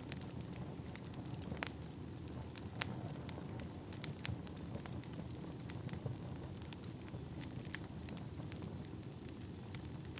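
Firewood burning: a steady low rumble of flames with scattered sharp crackles and pops. About halfway through, a faint thin high whistle sets in and sinks slightly in pitch.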